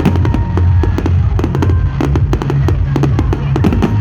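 A fireworks barrage: dense crackling and popping, many sharp cracks each second, over a deep continuous rumble.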